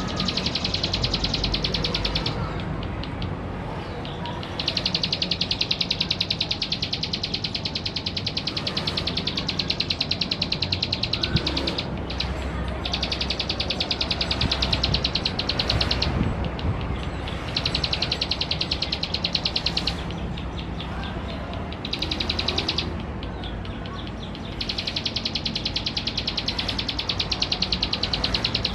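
Male ciblek sawah (a prinia) singing a long, rapid, dry trill of fast-repeated high notes, in bouts of several seconds separated by short pauses.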